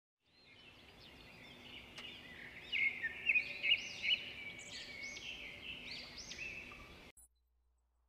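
Forest birds singing: many short, overlapping whistled and chirping phrases over a faint hiss, which stop abruptly about a second before the end.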